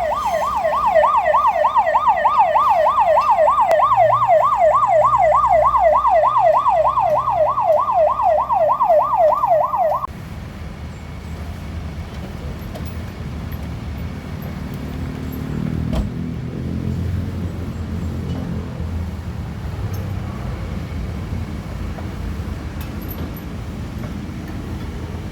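A tow truck's electronic siren yelps, sweeping up and down about four times a second, and cuts off suddenly about ten seconds in. Then comes the steady low run of the truck's Hyundai D4CB diesel engine idling, with a single sharp click in the middle.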